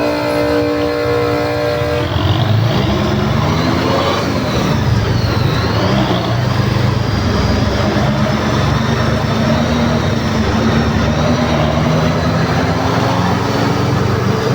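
A vehicle horn sounding steadily for about two seconds, then stopping, followed by a motor vehicle engine running in traffic, its pitch dipping and rising as it changes speed.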